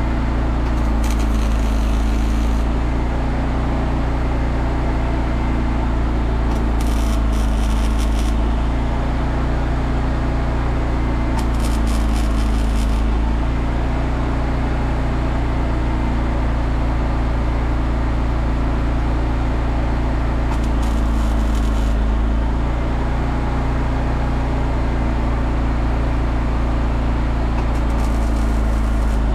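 Steady low engine hum, likely an engine-driven welder, running throughout. Five short bursts of MIG welding crackle, each about a second and a half, as tack welds are laid.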